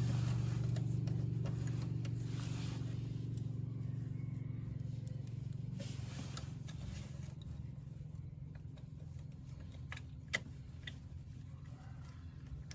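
Car engine running steadily with a low hum that slowly fades away. There is a single sharp click about ten seconds in.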